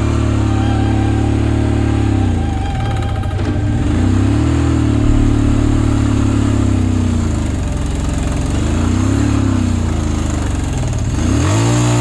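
Motorcycle engine running under way, its pitch holding, then dropping and climbing again several times as the throttle is eased off and opened back up.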